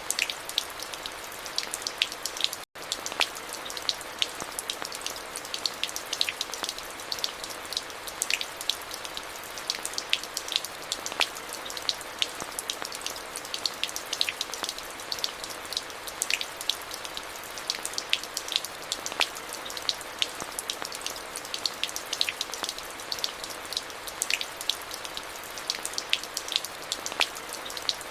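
Steady rain: a constant hiss with many sharp individual drops striking throughout. About three seconds in, the sound cuts out to silence for a split second.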